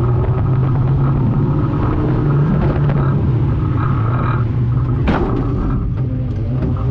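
Morris 1100's four-cylinder engine running at low revs, heard from inside the cabin. A sharp knock comes about five seconds in as the car jolts.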